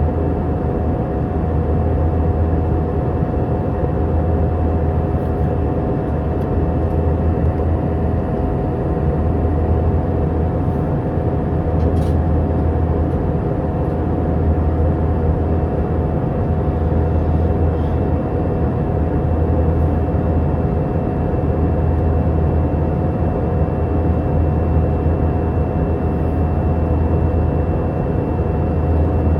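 Steady cabin noise inside an Airbus A319 in flight: a constant low drone of jet engines and airflow, with a few faint steady tones above it.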